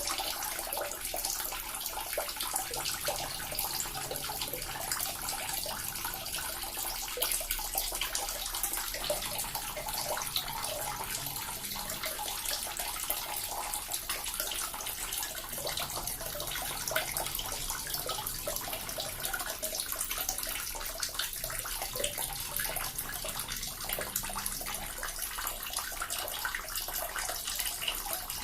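Small water fountain running continuously: a steady stream of water splashing and trickling into a basin, with fine irregular splashes throughout.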